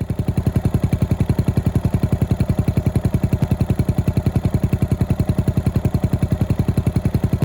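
Yamaha SR400 Final Edition's single-cylinder four-stroke engine running at steady low revs through a Peyton Place conti-style aftermarket muffler: an even, rapid beat of exhaust pulses with no revving.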